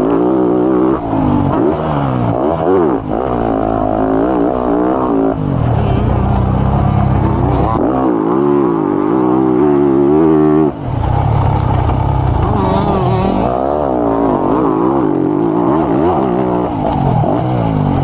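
Motocross bike engine heard on board, revving up and falling off over and over as the throttle is worked through the gears. The engine drops away briefly about a second in, again about three seconds in, and near eleven seconds.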